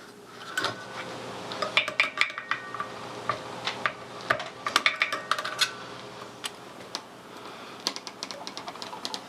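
Heavy-gauge wire being curled by hand into a loop, with irregular sharp metallic clicks and clinks from the wire and the tools working it.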